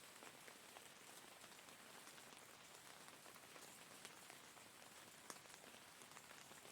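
Faint, steady rain, a soft hiss with many individual drops ticking at irregular moments.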